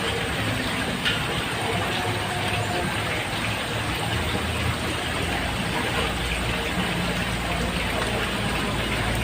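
Steady rain falling on a roof, with a sharp drip or tick about a second in. A low rumble joins and grows louder from about six seconds in.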